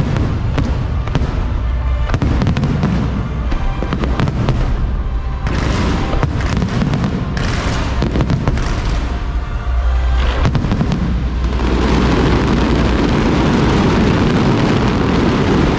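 Aerial fireworks going off in rapid bangs and crackles. About two-thirds of the way through they build into a dense, continuous crackling barrage.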